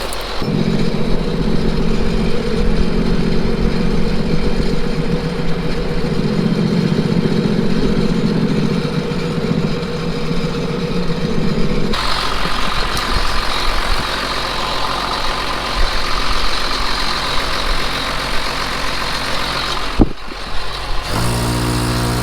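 Engine running steadily at a constant speed. The sound changes abruptly about twelve seconds in and again near the end, with a short dip just before the last change.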